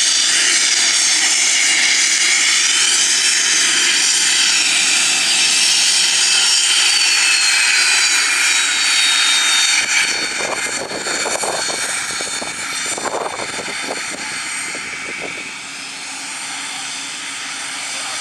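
Twin turbofan engines of a Cessna Citation S/II business jet at takeoff power: a loud jet whine with high tones that slide slowly down in pitch. About ten seconds in the sound drops suddenly, then carries on fainter and uneven.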